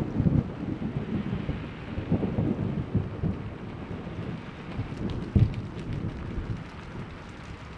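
Thunder rumbling and slowly dying away under steady rain, with one short low boom about five seconds in. Raindrops ticking become clearer as the rumble fades.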